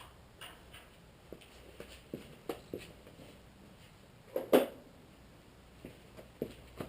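Scattered light knocks and clicks, about a dozen at irregular intervals, with one louder knock about halfway through: sounds of sheet metal and tools being handled while forming a patch panel.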